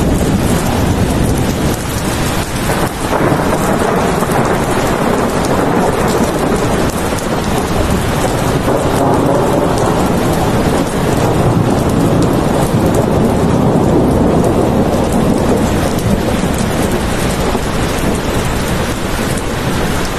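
Heavy, steady rain pattering on a surface, with a low rumble of thunder rolling under it that swells through the middle.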